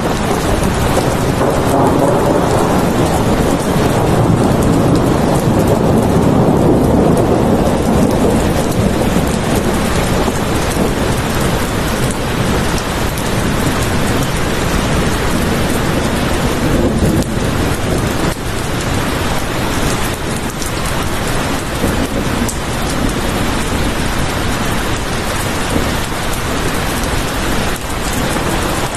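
Steady heavy rainfall. A low rumble swells and fades under it over the first ten seconds or so.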